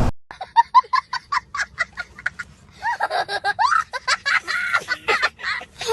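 An edited-in sound clip of high-pitched cackling, laugh-like calls: a quick run of short calls, then longer wavering ones, with the engine and road noise cut away suddenly at its start.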